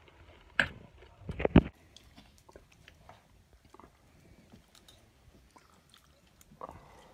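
Close-up chewing and biting of buffalo meat curry with rice, with two loud crunchy bites in the first two seconds, the second louder, then quieter scattered mouth clicks and another bite near the end.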